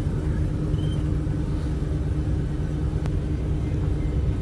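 Steady low rumble of a moving vehicle heard from inside the cabin, with an even engine hum underneath.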